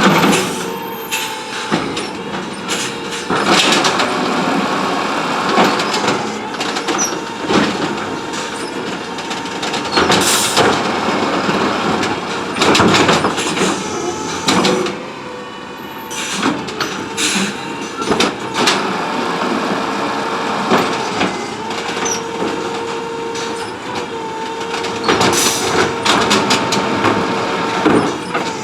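CNG Autocar ACX garbage truck with an Amrep automated side-loader arm at work: engine running under a steady hydraulic whine, with repeated clanks and bangs from the arm and body.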